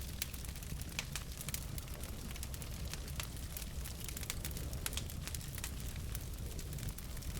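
Logs burning in a fireplace: a steady low rumble of flames with frequent sharp, irregular crackles and pops.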